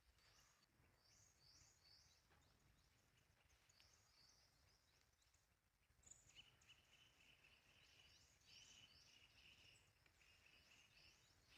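Faint birds chirping: a run of short, high, falling notes repeated several times a second, joined about halfway through by a lower, steadier chirping call.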